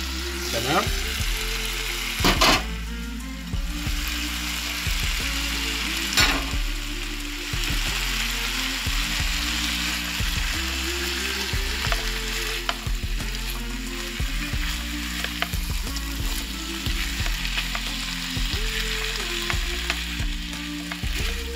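Diced potatoes and carrots sizzling in oil with chicken breast pieces in a non-stick pan, stirred with a silicone spatula: the hard vegetables are going in first to fry. Two louder clatters come about two and a half and six seconds in.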